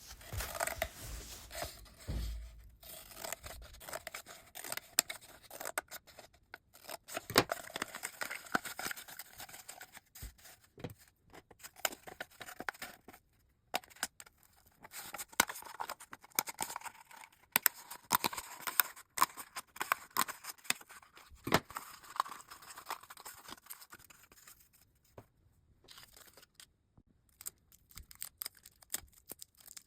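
Paper craft handling: scissors snipping paper and cardboard, with paper rustling and tearing, made of irregular clicks and short scrapes.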